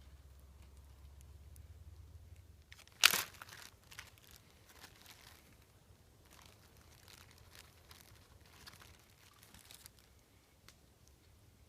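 Plastic snack bag torn open with one sharp rip about three seconds in, then crinkling on and off as it is handled.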